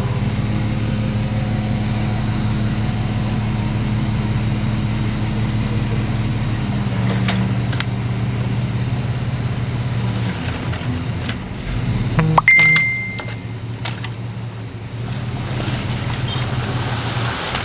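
Heavy diesel engine of earthmoving machinery running steadily. Past the middle there is a sharp knock and one short high beep.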